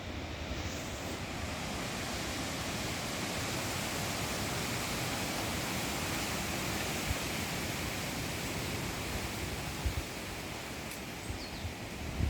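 Wind rushing steadily through the forest trees, swelling in about a second in.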